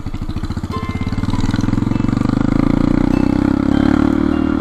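Motorcycle engine pulling away, its firing pulses quickening over the first second or so, then running steadily under load.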